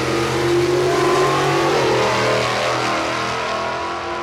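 A classic drag-racing car's engine running loud at a fairly steady pitch. It swells up at the start and eases off near the end.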